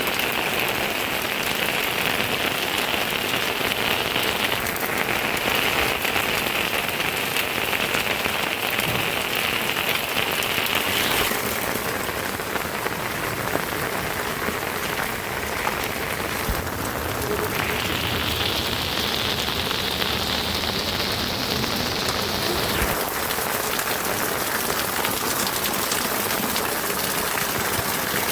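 Steady rain pouring down onto surfaces. A high, steady buzz runs through the first ten seconds or so, drops out, and returns for a few seconds after the middle.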